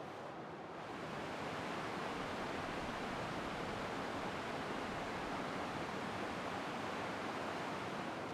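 Heavy rain falling steadily, a dense even hiss that grows a little louder about a second in.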